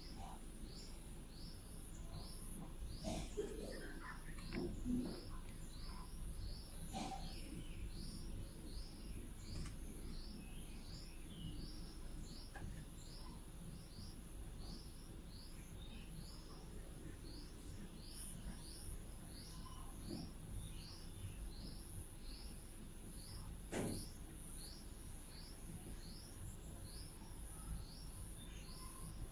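A bird's short, high chirp repeated steadily, about three calls every two seconds, over a steady high insect buzz and faint outdoor background.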